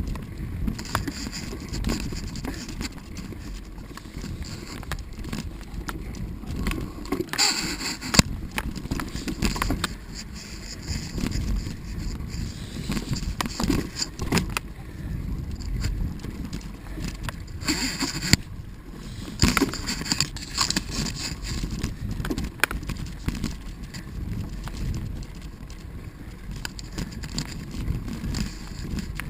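Mountain bike rolling along a dirt trail: a steady low rumble with frequent small rattles and clicks from the bike. Two brief hissing bursts come about 7 seconds in and again about 18 seconds in.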